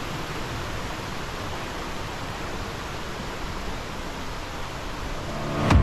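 Waterfall rushing in a steady, even roar of falling water. Near the end a sharp click breaks it as music begins.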